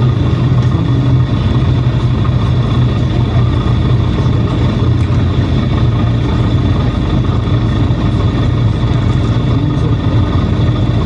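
Inside a PAZ-422320-04 "Citymax 9" city bus on the move: the engine runs with a steady low hum over road noise, with a thin steady high whine above it.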